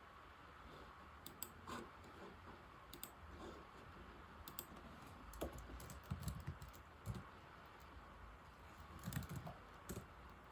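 Keys of an old laptop keyboard being typed on: quiet, irregular key clicks and taps in short runs, with pauses between them.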